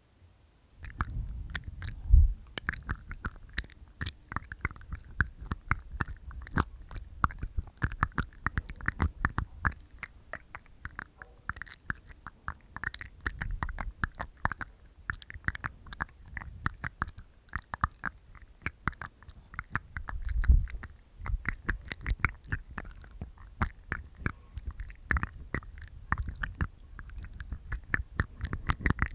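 Close-miked ASMR mouth sounds made inside the mouth: a dense, irregular stream of wet tongue clicks and teeth sounds, starting about a second in, with a few low thumps among them.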